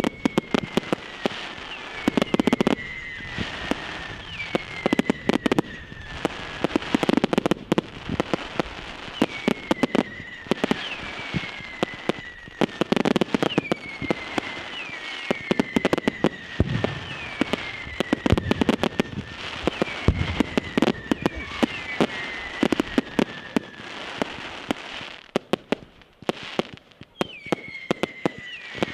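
Fireworks display in full flow: a dense barrage of bangs and crackling, with whistles falling slightly in pitch repeated every second or two.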